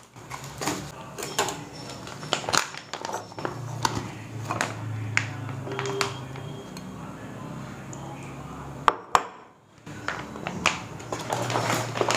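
Kitchen clatter of dishes, bowls and utensils being handled, a series of irregular knocks and clinks over a low steady hum, as raw chicken is unpacked and washed.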